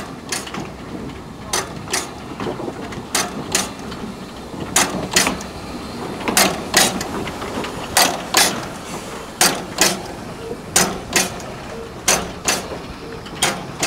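Narrow-gauge railway carriage wheels clicking over rail joints in regular pairs over a steady rumble, the pairs coming a little faster as the train gathers speed.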